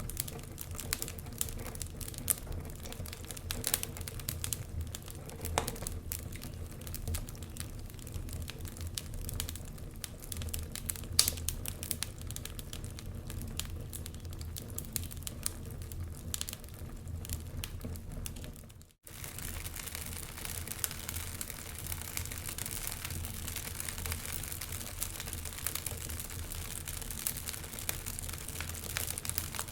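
Wood fire crackling in a fireplace: irregular sharp pops and snaps over a steady low rumble. About two-thirds through the sound cuts out for a moment, then the crackling resumes with more hiss.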